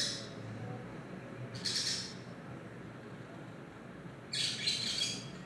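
Birds squawking and chirping in two short bursts, a brief one about a second and a half in and a longer one near the end, over a low steady hum.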